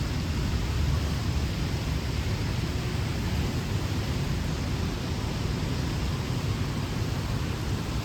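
Steady rain hiss over a low, constant rumble of city traffic.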